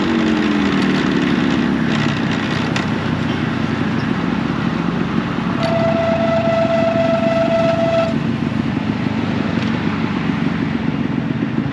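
Ride on a Yamaha RX100's two-stroke single on its stock exhaust, with heavy wind and road noise; the engine pitch drops in the first second as it slows. Around the middle, a vehicle horn sounds steadily for about two and a half seconds.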